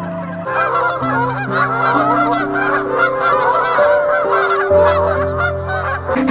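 A flock of geese honking and cackling, many calls overlapping, over background music. The calls start about half a second in and stop just before the end.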